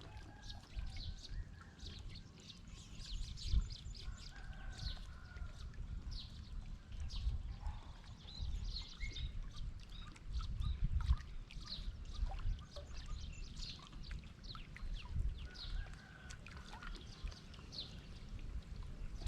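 Small birds chirping over and over, short sharp chirps with a few longer whistled notes, above an uneven low rumbling noise.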